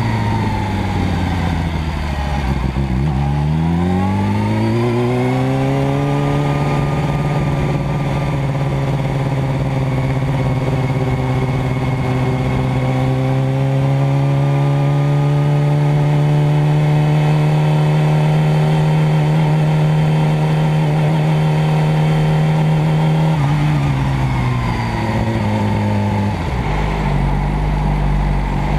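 Motorcycle engine running under load: its note falls for a few seconds, rises again, then holds one steady pitch for a long stretch before dropping near the end.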